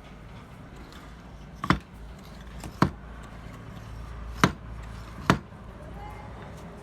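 Four sharp tool strikes, each with a brief ring, spaced about a second apart, over a low steady hum.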